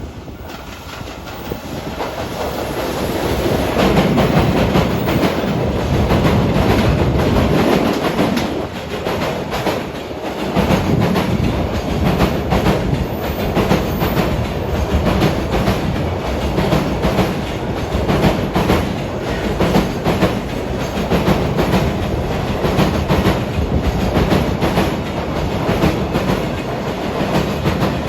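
A train passing on rails. It builds up over the first few seconds, then runs on in a steady clickety-clack of wheels over rail joints.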